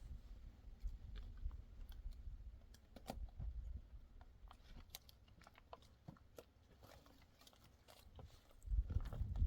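Irregular small crunching clicks, with a low rumbling noise that grows louder near the end.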